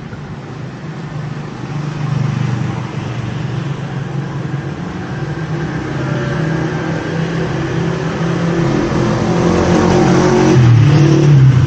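A motor vehicle's engine running and drawing closer, growing steadily louder and loudest near the end, then fading.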